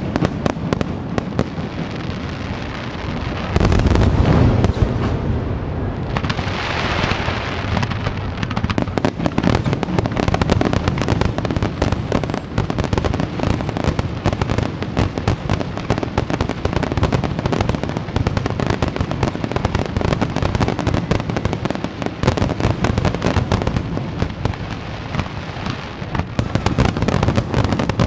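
Aerial fireworks bursting in a rapid, continuous barrage of booms and crackles, with an especially heavy low boom about three and a half seconds in.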